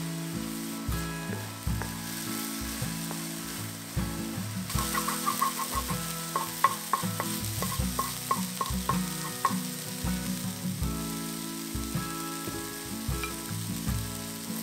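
Shrimp and diced vegetables sizzling in a hot stainless steel wok, stirred and scraped with a wooden spatula. The sizzle grows louder about five seconds in, with a quick run of scraping strokes until about nine and a half seconds. Soft background music plays under it.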